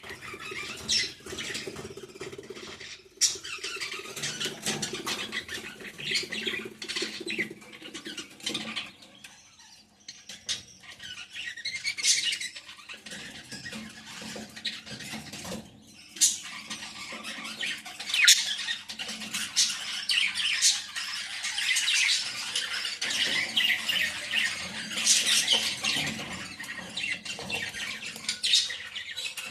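A flock of small pet parrots, such as lovebirds and budgies, chattering and squawking continuously, with dense high chirps and occasional louder shrieks.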